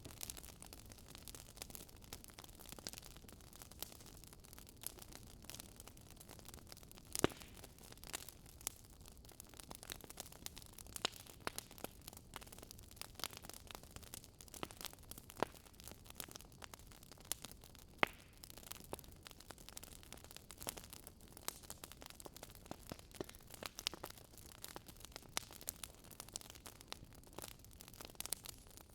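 Wood fire burning in a fireplace: a soft steady hiss with irregular crackles and pops, two sharper pops about 7 and 18 seconds in.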